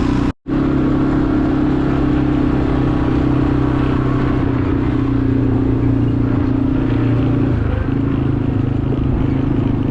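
Quad bike (ATV) engine running at a steady speed while riding, with a brief break in the sound about half a second in.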